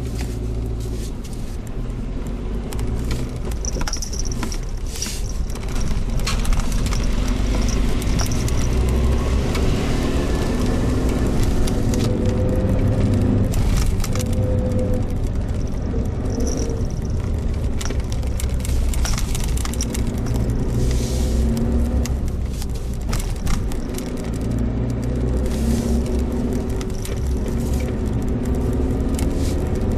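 Suzuki Jimny Sierra being driven: steady engine and road rumble, its pitch shifting up and down with the revs, with scattered short clicks.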